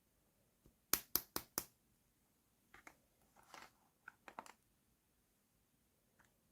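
Small toy pieces being handled: four quick sharp clicks about a second in, then a few softer taps and rustles.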